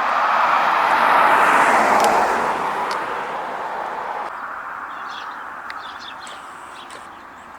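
A car driving past, its road noise swelling to a peak a second or so in and then slowly fading away. Small birds chirp faintly in the second half.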